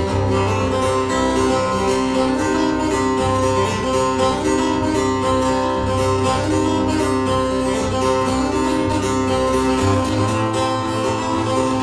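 Acoustic guitar instrumental played live: a steady run of picked notes over held, ringing lower notes.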